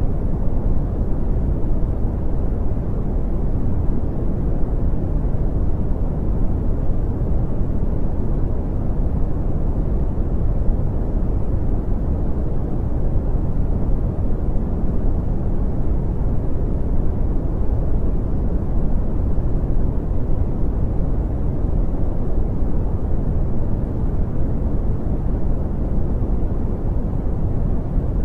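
Brown noise: a steady, unchanging deep rumbling hiss, strongest in the lows and rolling off in the highs.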